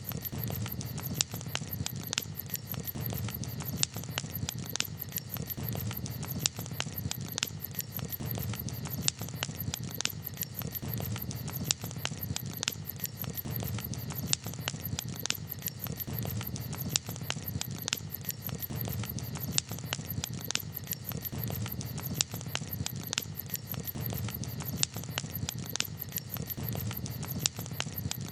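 Campfire crackling: sharp, irregular pops and snaps over a steady low rumble from the burning fire.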